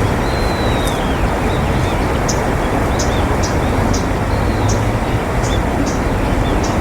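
A steady, loud rushing roar in the background, with a small bird's short, high chirps repeating about twice a second and one thin whistled call that bends downward about half a second in.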